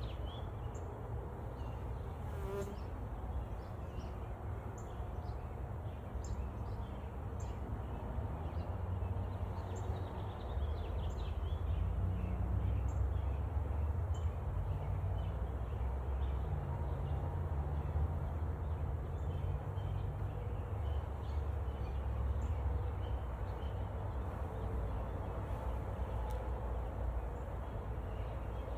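Honey bees buzzing en masse, a steady dense hum that grows louder about ten seconds in, as a newly released package colony makes its way into the hive.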